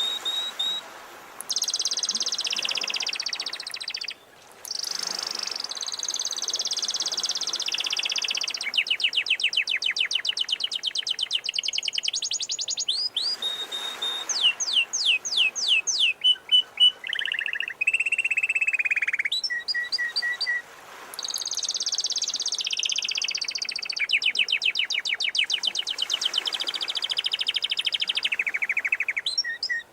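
Domestic canary singing a long, varied song of rolled trills and rapid runs of repeated high notes, broken by brief pauses a few times.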